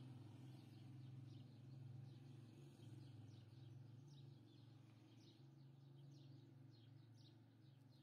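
Near silence with faint bird chirping in the background: a run of short high chirps over a low steady room hum.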